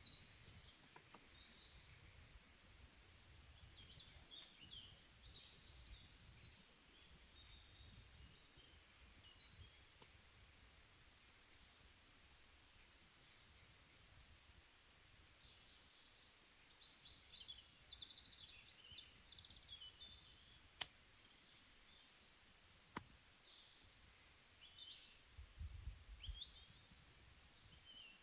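Small birds chirping and twittering faintly throughout, many short high calls overlapping. Near the end come two sharp clicks about two seconds apart.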